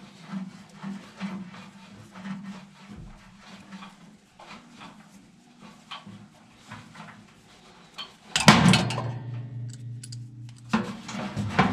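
Hand tools working on a furnace blower's metal mount, with small clicks and knocks, then a loud metallic clang about eight seconds in that rings for about two seconds before being damped, followed by more knocking.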